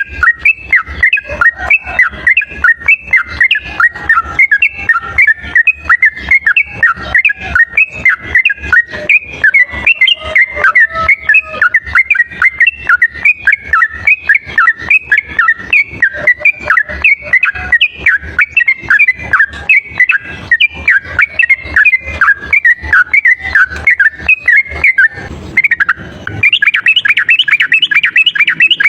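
Yellow-vented bulbul (trucuk) singing a long, nonstop chattering song of quick bubbly notes, used as a bird-lure call. About 26 seconds in it breaks off briefly and resumes with a slightly higher, faster run.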